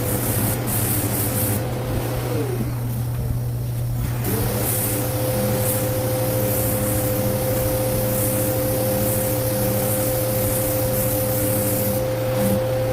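A small motor whining steadily, which winds down and stops about two seconds in, then spins back up a couple of seconds later and runs on. Over a constant low hum come repeated short scratchy strokes, like sandpaper worked over body filler.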